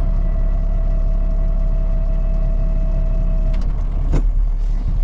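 Heavy snow-clearing truck's engine running steadily under load, heard from the cab. A thin steady whine stops about three and a half seconds in, and a short knock comes about a second later.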